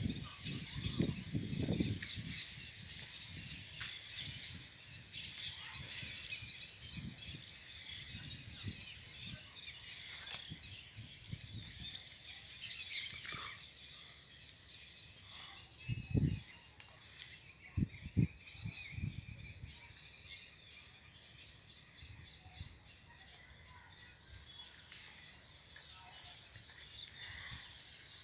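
A flock of rose-ringed parakeets calling: many short, shrill calls overlapping, with runs of quick repeated notes. A few dull low thumps come about two-thirds of the way through.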